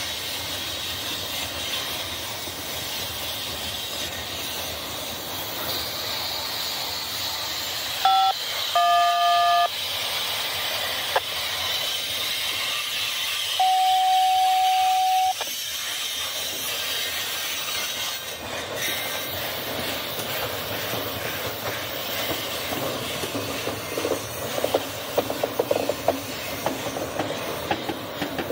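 Double-stack container freight train rolling past: a steady rumble and hiss of wheels on rail. Three short high squeals sound near the middle, the last and longest lasting nearly two seconds, and quick rattling clicks come near the end.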